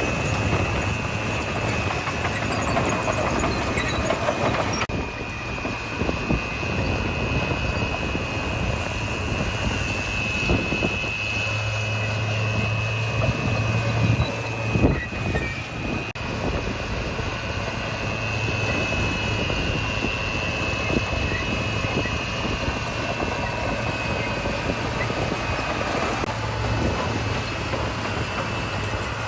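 Heavy diesel earthmoving machinery, bulldozer and dump trucks, running steadily with a low hum and a thin high whine. Scattered clanks come through, a cluster of them a little before halfway.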